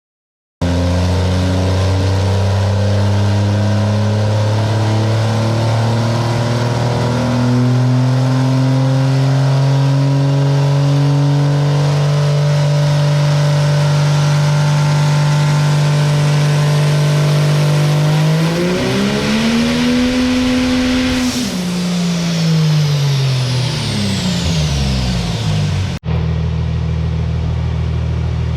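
Cummins diesel drag truck engine running hard at a steady speed, stepping up in pitch about seven seconds in and holding there. Near the end it revs up and then winds back down, with a high whine falling away as it slows. After a brief dropout it runs steadily again.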